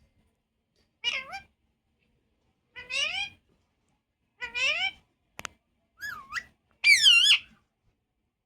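Parrot giving meow-like cries: five short calls, each rising in pitch, spaced about a second and a half apart. A sharp click comes just before the last two calls, and the last call is the loudest, its pitch wavering up and down.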